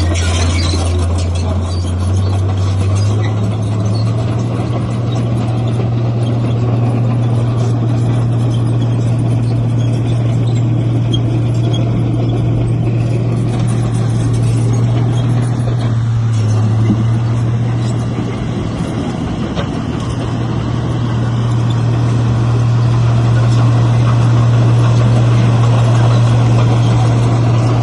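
Heavy diesel engine of earthmoving machinery running steadily under load, a deep drone that steps up slightly in pitch about three seconds in and eases briefly about two thirds of the way through.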